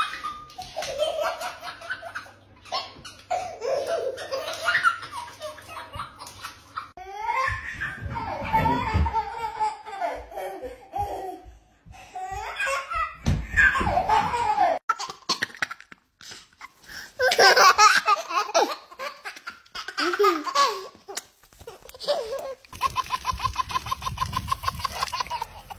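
A baby laughing hard, with belly laughs in several separate stretches and a fast, even run of laughs near the end.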